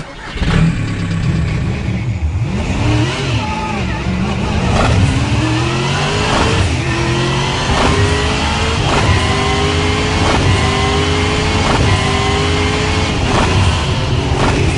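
Car engine revving hard, with a strong low rumble. Its pitch climbs and breaks off again and again, about once a second, like rapid gear changes under acceleration.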